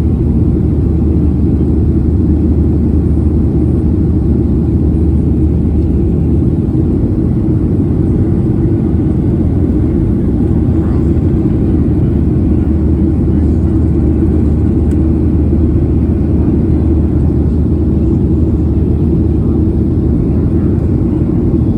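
Airliner cabin noise in flight: a steady low rumble from the jet engines and airflow, with a low hum under it.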